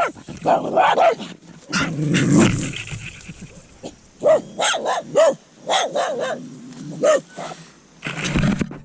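A dog barking repeatedly in short, separate barks, coming thickest in the second half.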